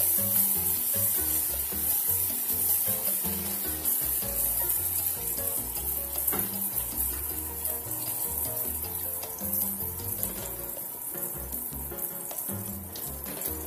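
Diced ham and onions frying in a hot pan as beaten eggs are poured over them, a steady sizzle that slowly gets quieter, with background music.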